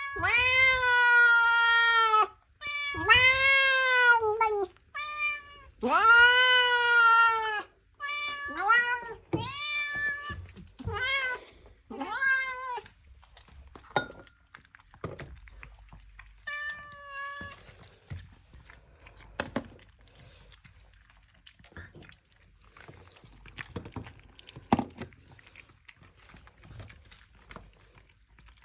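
Domestic cat meowing loudly: three long, drawn-out meows, then a run of shorter meows and one more a few seconds later. After that only faint scattered clicks and small knocks.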